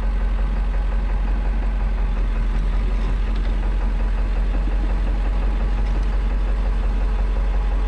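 Truck engine idling steadily with an even low drone.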